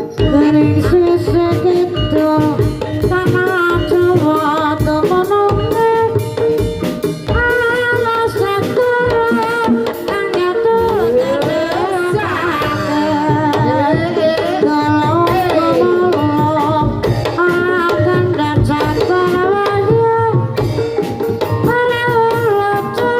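Javanese gamelan accompaniment for a kuda kepang dance: a stepped melody with hand-drum beats and a singing voice, playing steadily without a break.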